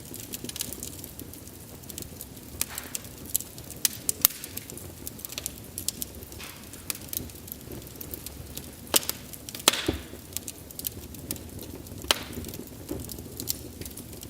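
Wood fire burning with a low steady rumble of flame and irregular crackles and sharp pops of splitting wood, a few louder snaps about two-thirds of the way in.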